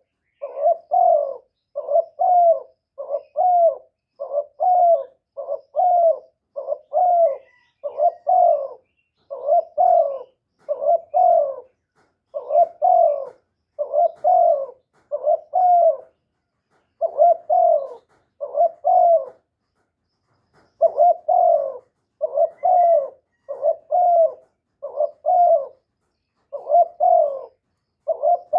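Male spotted dove giving its loud advertising coo over and over, each phrase a quick run of low coos, with brief pauses between phrases and one longer pause about two-thirds of the way through.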